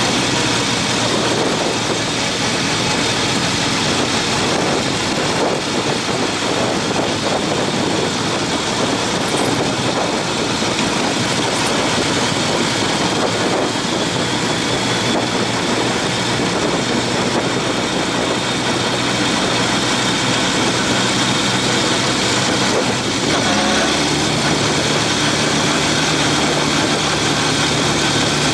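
Honda CB750's inline-four engine running steadily while riding, under a constant rush of wind noise; the engine note changes about 23 seconds in.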